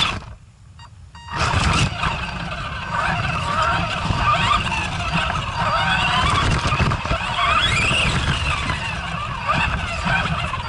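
Arrma Granite RC truck's electric motor whining up and down in pitch with the throttle over a rough rumble from the drivetrain and tyres on ice. The sound drops out sharply for about a second just after the start, then comes back.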